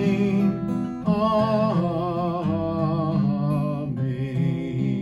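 A singer holding a long wavering "amen" over strummed acoustic guitar chords, a sung amen refrain.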